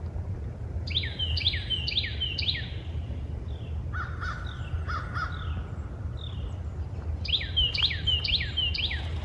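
Birds calling in three bouts of several quick, harsh repeated notes each, about a second, four seconds and seven seconds in. A steady low rumble runs underneath.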